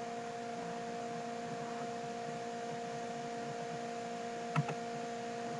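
Steady electrical hum of two pitched tones over a light hiss, with a single short click about four and a half seconds in.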